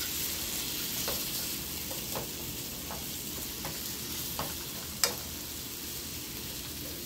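Sliced onions, sweet peppers and chicken pieces sizzling in a nonstick skillet as a fork stirs them, clicking against the pan about once a second. The loudest click comes about five seconds in.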